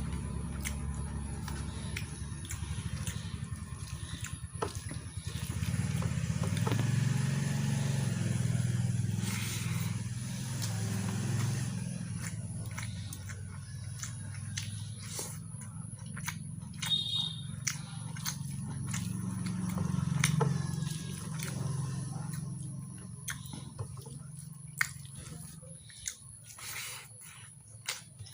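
Chewing and wet mouth sounds of someone eating mutton curry with rice: smacking lips and many short clicks over a low, steady hum.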